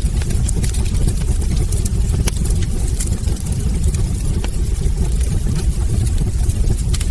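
Wood fire burning in a fireplace: a steady low rumble of flames with frequent small crackles and pops from the logs, a sharper pop near the end.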